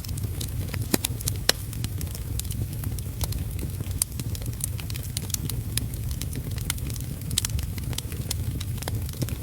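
Wood fire crackling, with frequent sharp irregular pops over a steady low rumble, mixed with steady rain.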